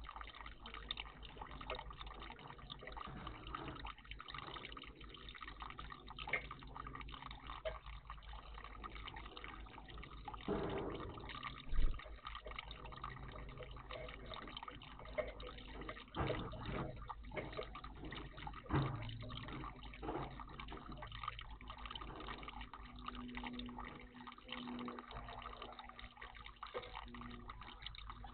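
Water trickling and dripping in a garden bird bath, with a few louder splashes about a third of the way in and again past the middle.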